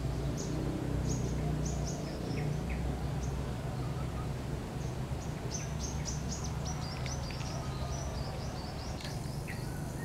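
Small wild birds chirping: a scatter of short, high, falling chips that come thickest about halfway through, over a steady low hum of background noise.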